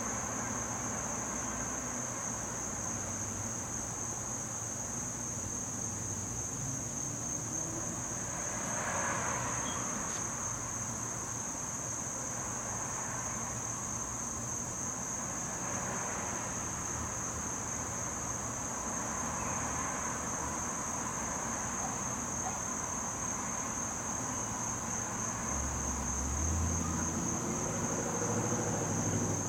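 Steady, unbroken high-pitched insect chorus over a background hiss, with a few soft swells of broader noise and a low rumble near the end.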